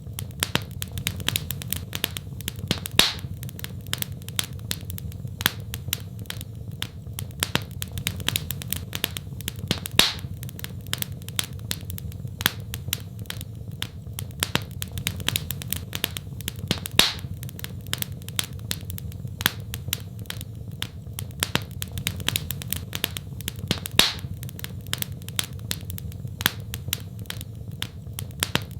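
Wood fire crackling in a fireplace: a constant stream of small snaps, with four louder pops about seven seconds apart, over a steady low rumble of the flames.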